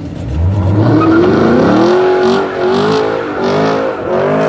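A car engine revving up, climbing steeply in pitch over the first second and a half, then held at high revs with a few brief dips before it falls away at the end.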